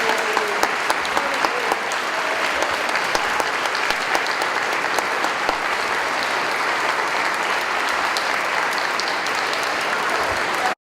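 Audience applauding steadily in a church, with faint voices early on; the sound cuts off suddenly near the end.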